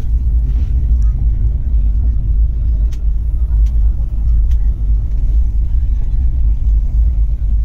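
Steady low rumble of a moving passenger train, heard inside an air-conditioned 3AC coach of the Barmer–Howrah Express, with a few faint clicks over it.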